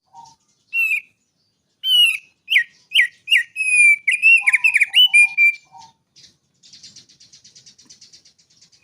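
Songbird singing: a run of loud, clear whistled notes that slide up and down, a few lower notes, then a fast, fainter buzzy trill over the last couple of seconds.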